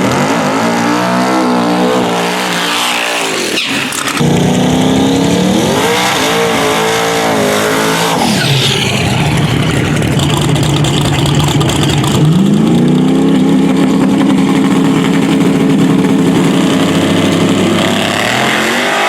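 Drag race car engines revving hard in short up-and-down bursts, then running at a steady high note that climbs about twelve seconds in and holds for several seconds, as a car pulls down the track.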